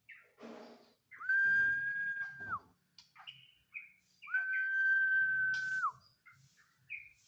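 Caged songbird singing: two long, level whistled notes, each about a second and a half and ending in a downward slur, with short chirps between and after them.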